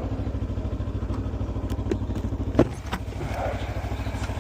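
Motorcycle engine idling with an even, low pulse; a single sharp click or knock about two and a half seconds in.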